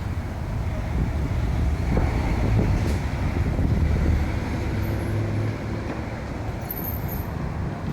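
City street traffic: a steady low rumble of passing vehicles that swells about two seconds in and eases off again after about four and a half seconds.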